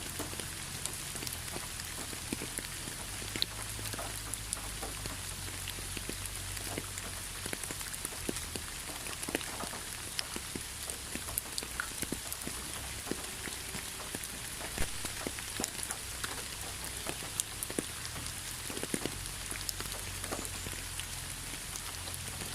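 Steady rain falling, an even hiss with many scattered, sharp individual drop impacts, over a faint low rumble.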